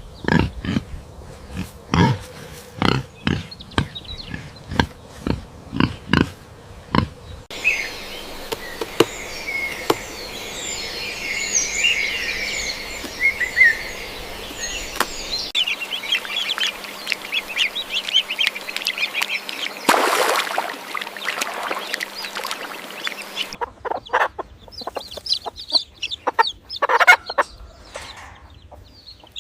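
Edited animal sound clips played back to back: a run of about a dozen short repeated calls, then a stretch of high bird chirping, then further short calls, with poultry-like calls prominent.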